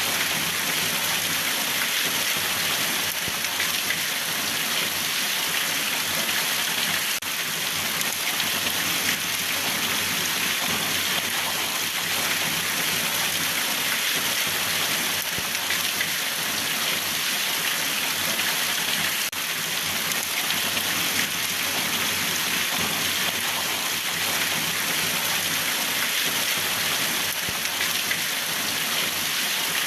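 Steady rain falling on a surface, an even hiss of many drops with no breaks.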